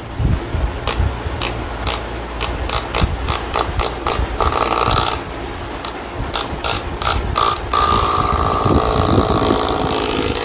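A closed door rattling and knocking in its frame, with many quick clicks and bangs, as a cat on the other side paws and pushes at it.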